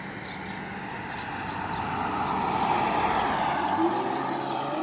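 Police car approaching at speed, its engine and tyre noise growing steadily louder, with the engine revving upward briefly near the end.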